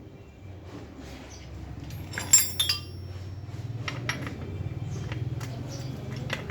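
Metal tools and bicycle parts clinking during bottom-bracket work: a few sharp, ringing metal clinks a little over two seconds in, then scattered light taps and ticks. A low hum swells underneath.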